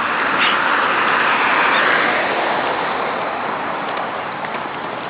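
Street traffic noise: a passing vehicle's tyre hiss swells to a peak about two seconds in, then slowly fades.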